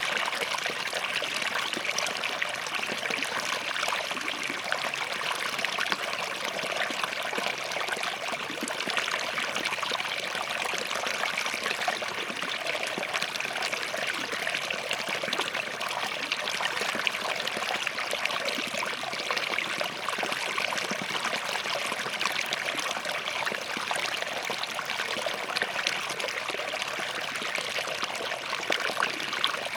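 Small forest stream flowing over rocks: a steady, even rush of water with dense little splashes and trickles.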